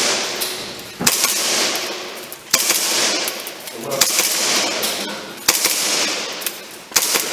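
Airsoft pistol firing single shots at a target, five shots about a second and a half apart, each followed by a hiss that fades away.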